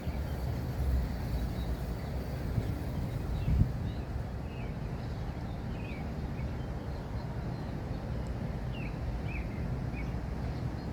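Outdoor background of a steady low rumble with a few short, high bird chirps scattered through the middle, and a brief thump about three and a half seconds in.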